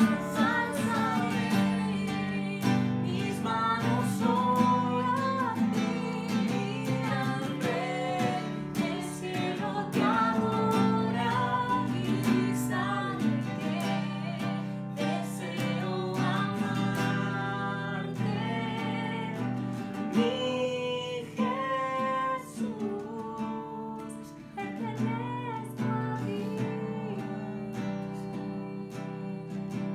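Worship song with strummed acoustic guitar accompanying a singing voice.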